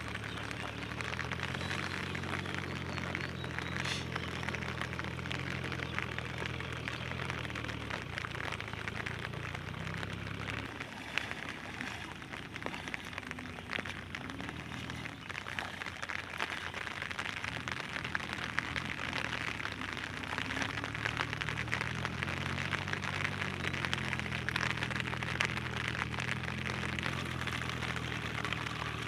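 Steady rain falling on shallow floodwater, a dense patter of drops. Under it a low steady hum runs for about the first third, drops away, and comes back about two-thirds of the way in.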